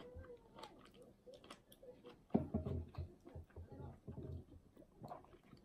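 Close-up eating sounds: chewing with wet mouth clicks and small smacks, a few louder muffled chews about two and a half seconds in and again near four seconds.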